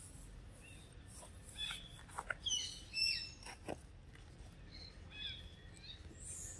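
Small birds chirping in short, high, downward-sliding notes, a quick cluster in the middle and a few more near the end, with a few dry clicks among them.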